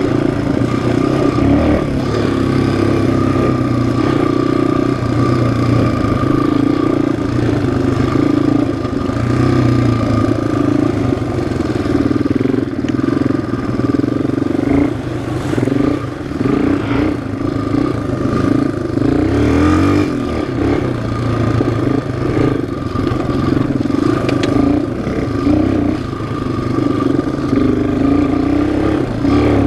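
Single-cylinder four-stroke ATV or dirt bike engine running under way, held at a fairly steady throttle with small swells and dips. Some short knocks and clatter come through around the middle.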